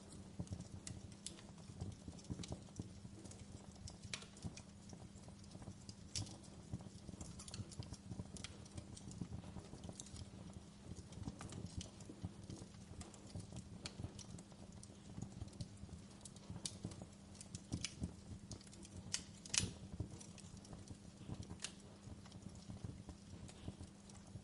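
Wood fire crackling in a fireplace: irregular sharp snaps and pops over a low, steady rumble of burning, with one louder pop late on.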